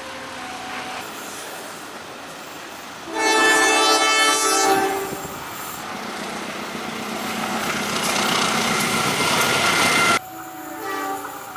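A train horn sounds once for about a second and a half. Then a passing train's rumble builds steadily louder and stops abruptly near the end.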